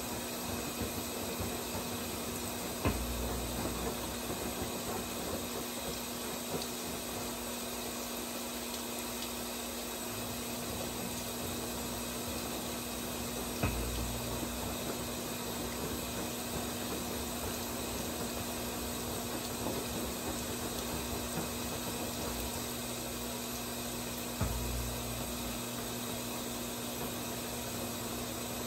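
Brastemp 17 kg top-load washing machine filling with water at the start of its wash cycle: a steady rush of inflowing water with a low steady hum. Three brief low thumps come about ten seconds apart.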